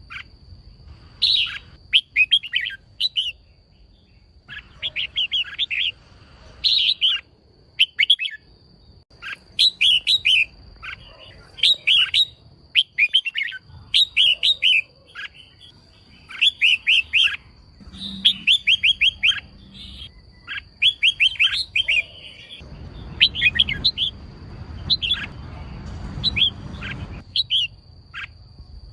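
Female red-whiskered bulbul calling in quick clusters of short, sharp chirping notes, a burst every second or two, with a faint steady high-pitched tone underneath.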